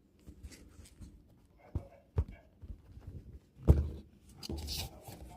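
A few sharp knocks and thuds, the loudest nearly four seconds in, with scuffing and rustling between them.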